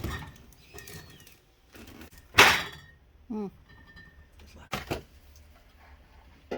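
Bottles being handled and set into a mini fridge: a few scattered knocks and clicks. The loudest is a sharp clunk with a short ring about two and a half seconds in.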